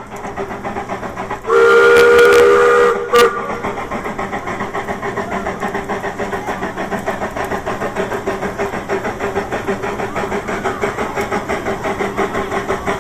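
Live steam locomotive blowing its steam whistle once, held for about a second and a half, with a short extra toot right after, over the steady chuff of its exhaust at about three beats a second.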